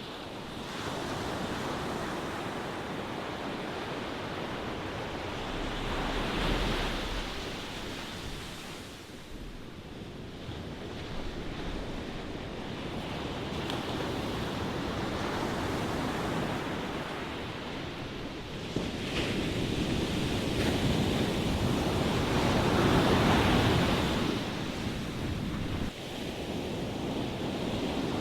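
Ocean surf: waves breaking and washing in a continuous rush that swells and ebbs. It builds to louder breakers about six seconds in and again a few seconds before the end.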